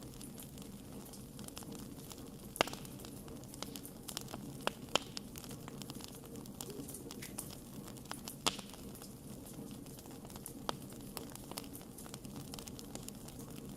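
Wood fire burning with a steady low rustle and continual crackling, and a few sharper pops from the burning wood.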